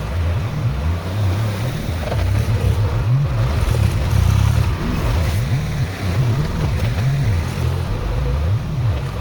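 Tractor engine running and revving up and down over and over under changing load while pushing and spreading a pile of crusher-run gravel.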